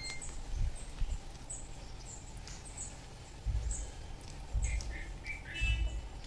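Birds chirping with short, high calls repeated about once a second, and a few lower, falling notes in the second half. Low thumps join from about halfway through.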